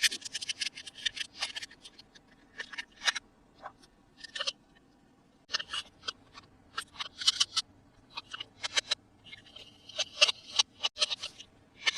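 Toy packaging being opened by hand: crisp crackles, snips and clicks in quick clusters, separated by short pauses.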